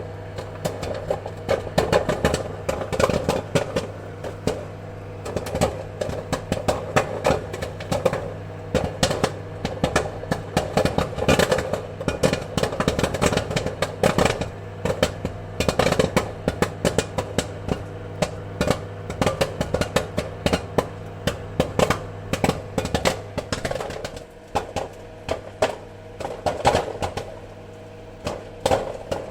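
Popcorn kernels popping rapidly and irregularly over a steady low hum, the pops thinning out somewhat near the end.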